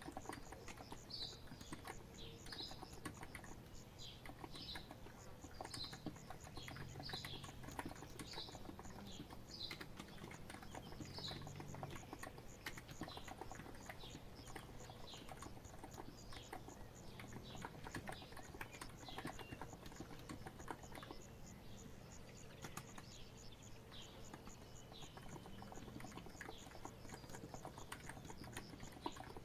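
Continuous typing on a COX Empress Living Coral Edition electro-capacitive (non-contact) keyboard, a dense run of soft key clicks. A bird repeats short chirps about once a second through the first twelve seconds or so.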